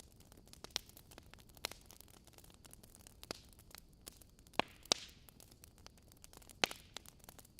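Wood fire crackling in a fireplace: scattered sharp pops and snaps over a soft hiss, the loudest pair about four and a half seconds in and another sharp pop near the end.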